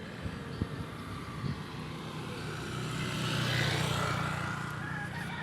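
Road traffic: a motor vehicle passes close by, growing louder and then fading about two-thirds of the way through, over a steady low hum, with a couple of short knocks early on.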